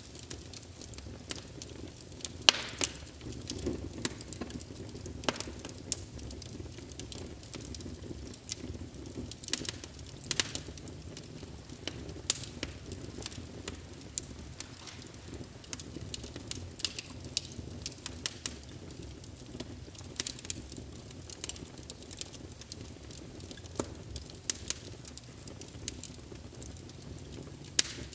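Wood fire crackling in a fireplace: irregular sharp pops and snaps over a low, steady rustle of the flames.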